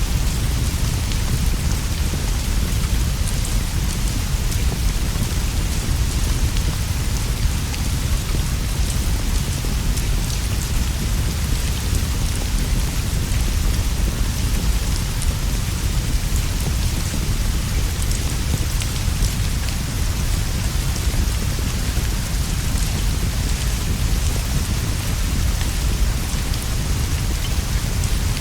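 Steady rainfall: a dense, even hiss with scattered small ticks of drops over a continuous deep rumble.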